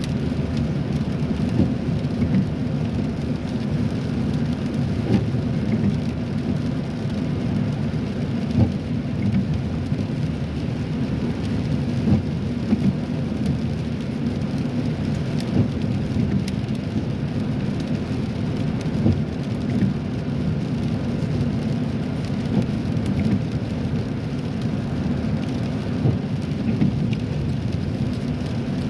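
Cabin noise of a car driving in rain: a steady low road-and-tyre rumble, with raindrops ticking on the roof and windshield at scattered moments.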